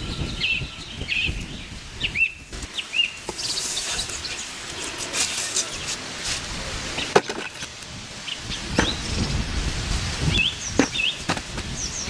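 Small birds chirping repeatedly in short, quick rising-and-falling calls, over rustling and rumbling noise with a few sharp clicks or snaps.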